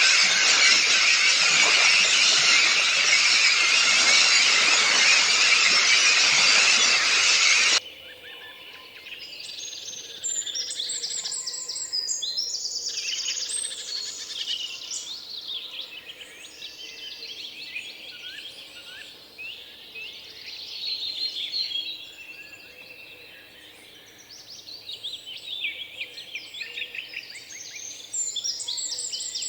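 A loud, dense wash of high sound that cuts off abruptly about eight seconds in, followed by several songbirds chirping and singing quick repeated trills.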